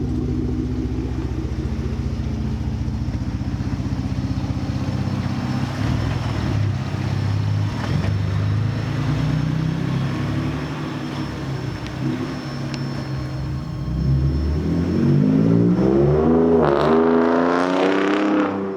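2019 Ford Raptor's twin-turbo V6 running through a new AWE exhaust: a steady idle, then revved up over the last few seconds with the pitch rising, ending abruptly.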